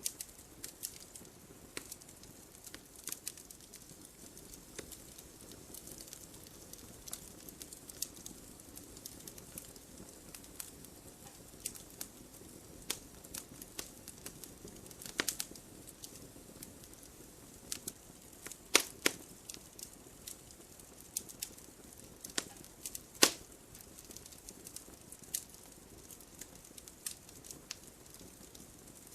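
Campfire crackling: irregular sharp pops and snaps over a soft steady rush of flame, with a few louder pops past the middle.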